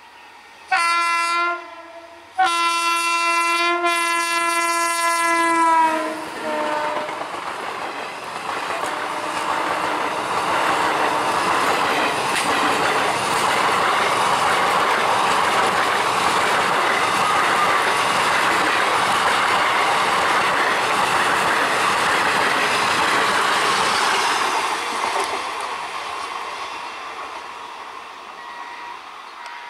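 Electric local train sounding its horn, a short blast and then a longer one that dips in pitch as it ends, then running through at speed: a loud, steady rumble and clatter of wheels on rails that fades away as the train recedes.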